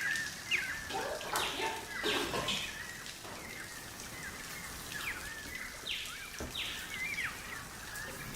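Several birds giving short chirps and whistled calls that slide up and down in pitch, over a steady outdoor background, with a few brief bursts of pattering noise.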